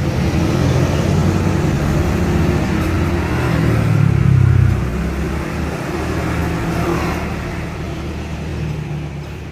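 A motor vehicle engine running nearby, loudest about four and a half seconds in, then fading away.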